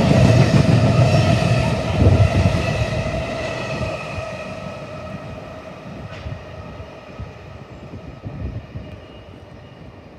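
Container freight train passing through, the wagons' wheels rumbling on the rails under a steady ringing note. The sound fades steadily as the end of the train draws away.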